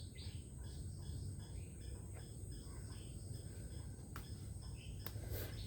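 Faint wetland insect chorus: a steady high-pitched drone with short chirps repeating a few times a second, over a low rumble. A couple of soft clicks come near the end.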